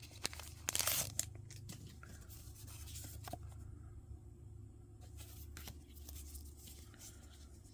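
A foil trading-card booster pack wrapper is torn open and crinkled in about the first second. After that come a few faint light clicks of cards being handled.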